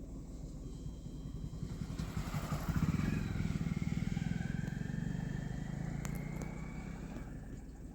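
A motor vehicle's engine passing by: it grows louder, peaks about three seconds in, then fades away.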